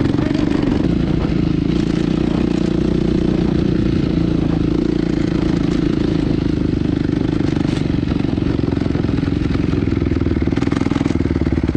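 Honda CRF250 dirt bike's single-cylinder four-stroke engine running steadily at an even pitch while being ridden in fourth gear through bush.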